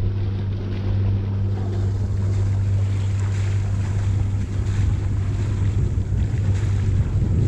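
Sailing yacht under way: wind on the microphone and water rushing past the hull over a steady low hum, getting rougher and gustier about halfway through.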